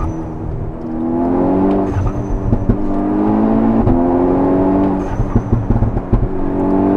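Turbocharged four-cylinder of a tuned VW Golf 6 R accelerating hard through the gears, its pitch climbing in each gear with shifts about two and five seconds in. At each lift-off the Forge diverter valve vents with a short high whistle, followed by a rapid fluttering chatter near the end.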